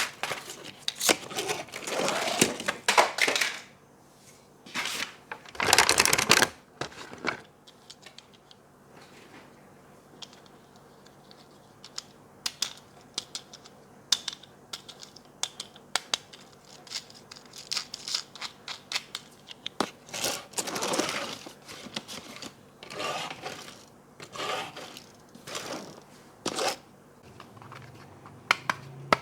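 Hands unboxing toy cars: packaging rustling and scraping in several loud swishes, with many scattered small clicks and taps of plastic parts between them.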